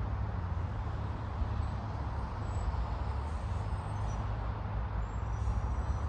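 Outdoor ambience: a steady low rumble of wind and road traffic, with a few faint, short, high bird chirps.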